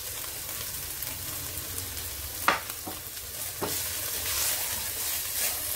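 Shredded chicken and diced carrots sizzling in oil in an aluminium kadai over a high gas flame while being stirred with a silicone spatula, with two sharp knocks against the pan about two and a half and three and a half seconds in.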